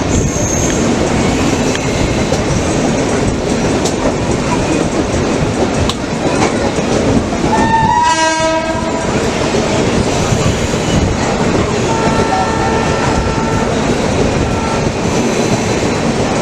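Express train running, a steady rumble of wheels on the rails. A horn sounds briefly about eight seconds in, and a fainter tone follows a few seconds later.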